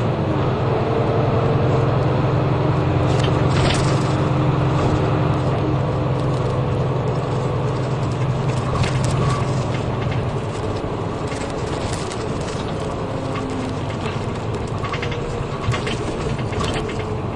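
City bus engine running, heard from inside the passenger cabin, with interior fittings rattling and clicking at intervals. The low engine hum weakens about ten seconds in.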